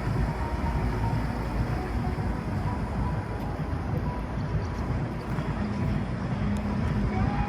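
Steady low rumble of a motorboat's engine running under way, with wind and water noise.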